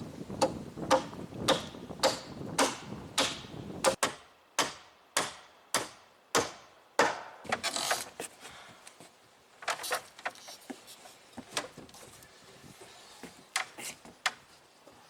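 Repeated sharp knocks, about two a second, each with a short ringing decay. After about eight seconds they give way to lighter, more irregular clicks.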